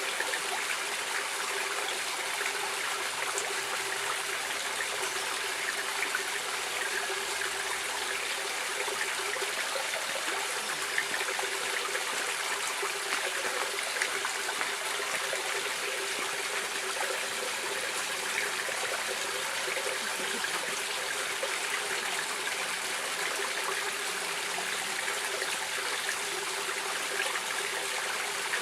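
Stream water flowing steadily: an even, continuous rushing and trickling with no pauses or changes.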